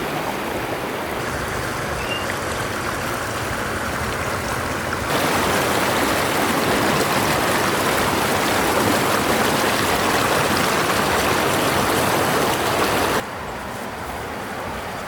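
Running water of a stream rushing steadily. It gets louder abruptly about five seconds in and drops back abruptly near the end.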